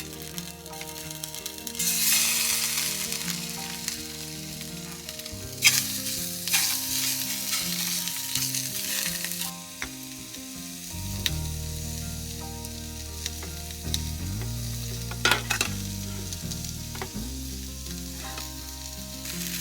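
Food frying in a pan, sizzling loudest in two stretches in the first half, with a few sharp clicks from utensils. Background music with steady bass notes plays throughout.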